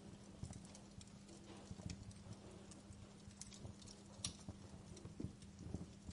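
Wood fire crackling in a fireplace: faint, irregular pops and snaps with softer low knocks, over a low steady hum.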